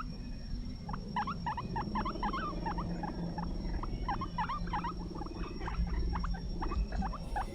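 Guinea pig squeaking: many short, quick rising squeaks coming in rapid clusters, over a low steady hum.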